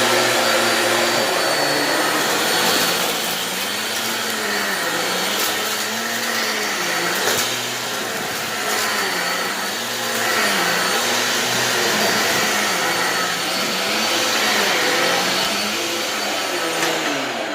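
Upright vacuum cleaner running on carpet, its motor pitch dipping and rising every couple of seconds.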